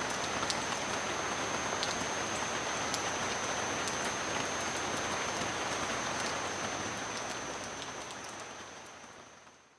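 Steady rain ambience with scattered sharp clicks and a faint steady high whine, fading out over the last three seconds.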